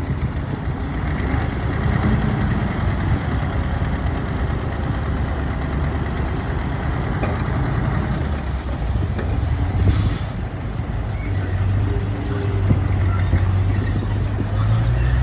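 Heavy diesel engine running steadily, with a short hiss about two-thirds of the way through.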